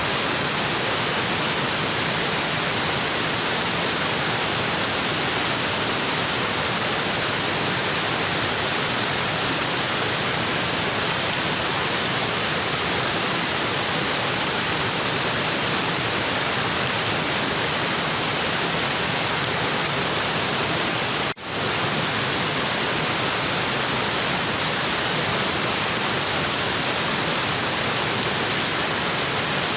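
Waterfall pouring onto rocks: a steady, dense rush of falling water, broken by a momentary dropout about two-thirds of the way through.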